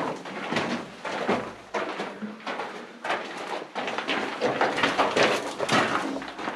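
Irregular scuffing and crunching of footsteps and movement on grit and rock, sounding boxed-in as in a small cave.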